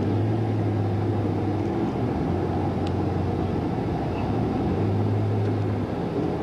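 Truck engine droning steadily with road rumble, heard from inside the moving vehicle. The low hum swells and eases slightly twice.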